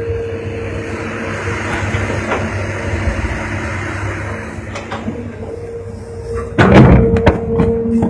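Hitachi hydraulic excavator running with a steady hum, then a loud burst of clattering knocks about six and a half seconds in.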